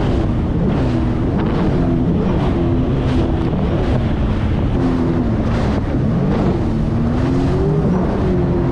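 Jet ski engine running under way, its pitch rising and falling as the throttle changes, with wind buffeting the microphone and water rushing.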